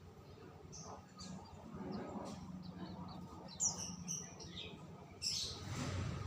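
Songbirds chirping: scattered short high chirps and a few quick falling whistled notes, with a brief rushing noise about five seconds in.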